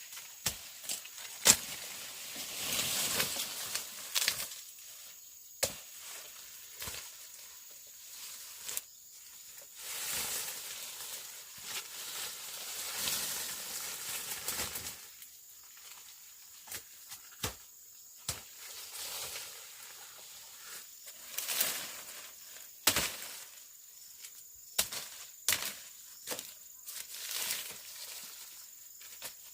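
Irregular sharp chopping or knocking strokes from hand work, some seconds apart, with stretches of rustling between them.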